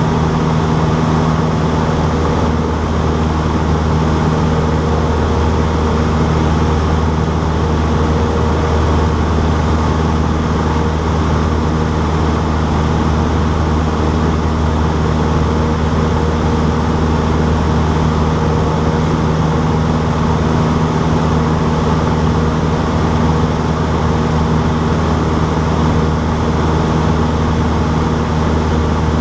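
Cessna 152's four-cylinder Lycoming engine and propeller running with a steady, unchanging drone.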